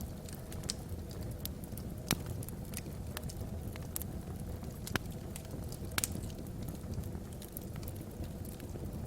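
Wood fire burning in a fireplace: a steady low rumble of the flames with sharp crackles and pops of the logs, several louder snaps scattered through.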